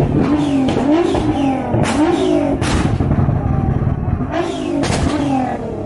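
Supercar engine being blipped, its exhaust note rising and falling several times in quick revs, with four sharp exhaust cracks between the blips.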